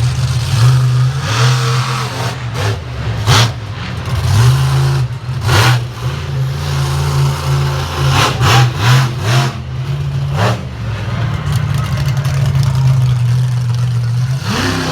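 Monster truck engine running hard and revving in bursts over a steady low drone, with several sharp cracks. Near the end the revs climb.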